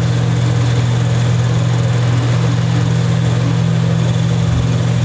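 A steady, loud low hum with no change in level, the kind made by a motor, fan or electrical equipment running in the background.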